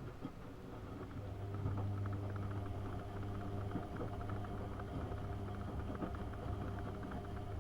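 AEG Öko-Lavamat 72520 washing machine running: a motor comes in about a second in and holds a steady hum, with light clicks and rattles over it.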